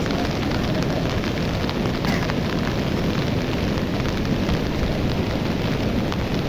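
Swollen river in flood, its water rushing in a steady, unbroken noise.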